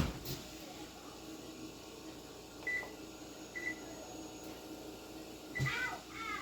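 Oven control panel beeping as its buttons are pressed to set the cooking timer: short high beeps about a second apart, three in all, over a faint steady hum. A sharp knock comes at the very start, and a brief voice near the end.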